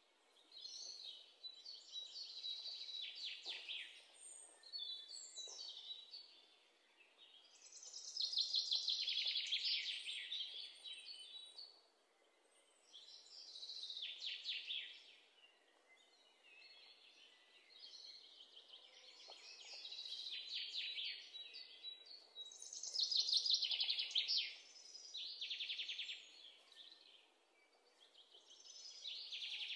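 Alexandrine parrots calling in harsh, rapidly pulsed screeches, in bouts a few seconds apart that rise and fall in loudness.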